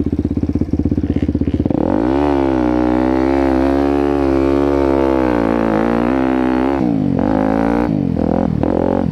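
Motocross dirt bike engine idling with a fast, even pulse. About two seconds in it is held at higher revs for roughly five seconds, the pitch wavering, then drops back near seven seconds. A couple of short rev blips follow before it settles to idle.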